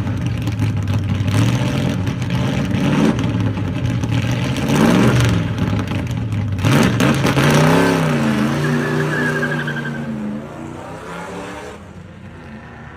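454 cubic-inch big-block V8 crate engine revving: the pitch climbs and drops a couple of times, then the engine settles into steadier running that grows fainter near the end.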